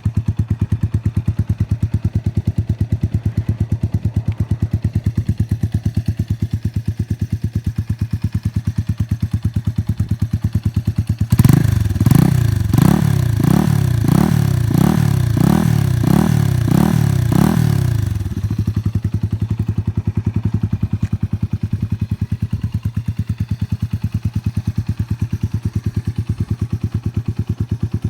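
Yamaha TW200's single-cylinder four-stroke engine idling with a steady rapid thump, then about eleven seconds in the throttle is blipped about nine times in quick succession, each rev rising and falling back, before it settles to idle again.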